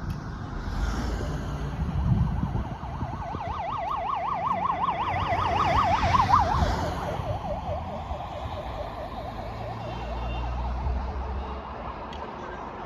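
Emergency vehicle siren with a fast warble, growing louder, then dropping in pitch about seven seconds in as it passes and carrying on lower and fainter, over a low rumble of road traffic.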